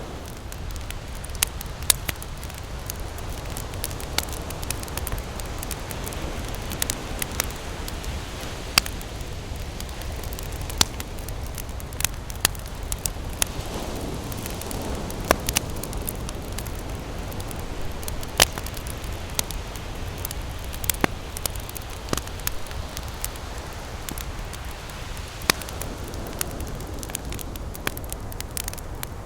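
Wood campfire crackling, with sharp snaps and pops scattered irregularly, a dozen or so standing out clearly. Beneath it runs a steady low rush of ocean surf.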